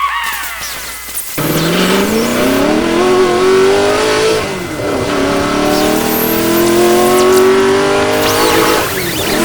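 A motor vehicle engine accelerating: its pitch climbs, drops sharply about five seconds in as at a gear change, then climbs again before falling away near the end.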